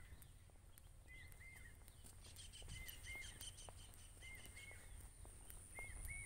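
Faint outdoor ambience with a bird calling a pair of short notes about every one and a half seconds, over low wind rumble.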